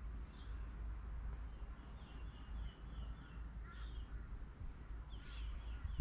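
Birds calling faintly: a quick run of about six short high chirps a couple of seconds in, then a few more chirping calls near the end, over a steady low rumble.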